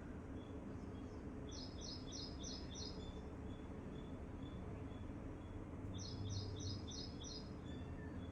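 Birds chirping: two short, rapid runs of about five high notes each, a few seconds apart, over a faint high note repeating about twice a second and a steady low background rumble.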